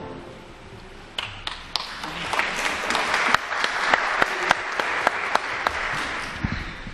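A church congregation applauding. It begins with a few scattered claps about a second in, swells into steady applause, and thins out near the end.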